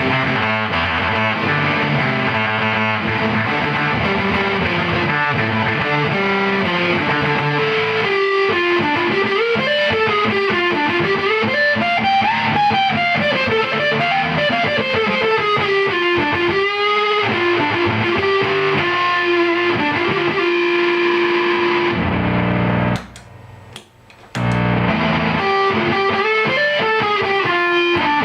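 Squier Jazzmaster electric guitar on its bridge pickup, played through a triple fuzz pedal: thick, distorted notes with pitch bends and wavering vibrato through the middle. The playing stops briefly near the end, then resumes.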